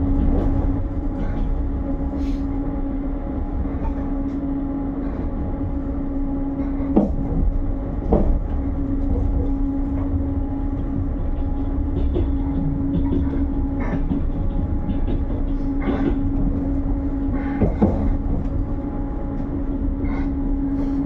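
Passenger train carriage in motion, heard from inside: a steady low rumble with a constant hum, broken by a few sharp clicks and knocks.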